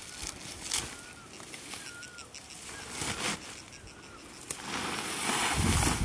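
A bird chirping in short repeated notes, with a rustling swish building up near the end.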